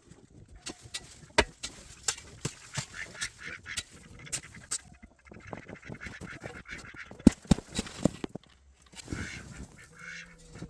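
Domestic ducks quacking in several bouts, with many sharp knocks and clicks between them.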